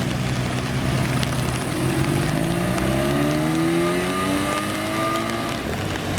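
Classic Japanese car's engine accelerating: its pitch climbs steadily from about a second and a half in, then falls back near the end.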